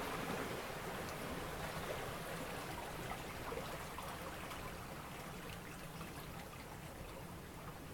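Water rushing and trickling, with small splashes and ticks, growing slowly quieter.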